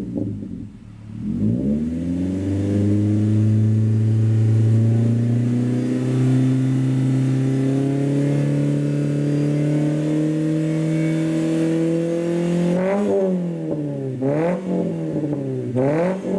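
Toyota Voxy's 2.0-litre inline-four revving through an aftermarket exhaust with a loud, deep 'Super Sound' centre pipe and a 110 mm straight rear silencer. It dips briefly near the start, then holds a long rev that climbs slowly in pitch, and ends with three or four quick throttle blips.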